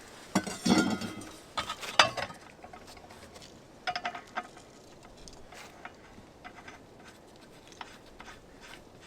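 Irregular sharp knocks and clinks of stone on stone, a cluster of louder ones in the first couple of seconds, then a few fainter ticks.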